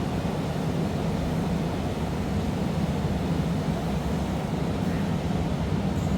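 Steady low roar of gas flame in a glassblowing studio, the hand torch heating the glass to an orange glow, with no breaks or knocks.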